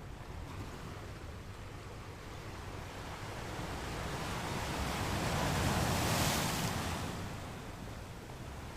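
Ocean waves: steady low surf rumble, with one wave building about three seconds in, breaking with a hissing wash around six seconds in, then receding.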